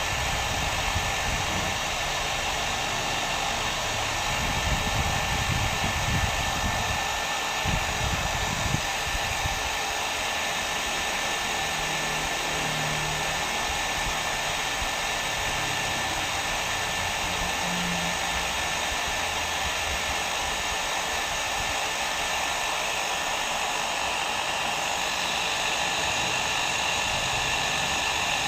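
Hair dryer blowing steadily: a continuous rush of air with a thin steady whine, and an uneven low rumble over the first several seconds.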